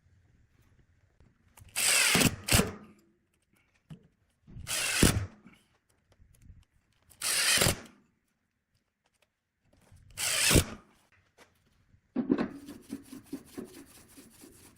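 A power tool run in four short bursts of under a second each, a few seconds apart. Near the end a different, rapidly pulsing tool sound starts.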